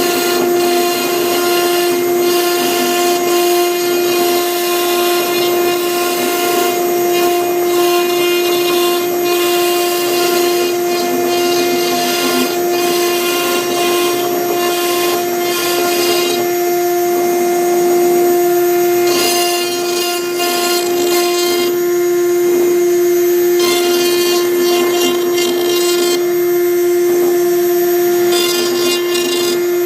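CNC router spindle running with a steady high whine while its V-bit engraves MDF. The scratchy cutting noise swells and fades as the bit moves through the strokes of the letters.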